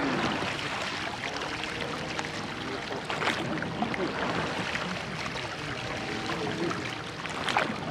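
Water rushing and lapping past a rowed church boat's hull, with two sharper oar strokes a few seconds apart.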